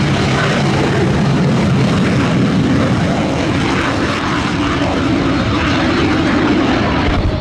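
Loud, steady aircraft engine noise from an airshow performance.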